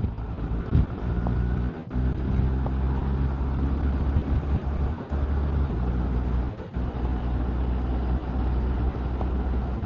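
Motorcycle engine running under way, a steady low drone broken by a few brief dips.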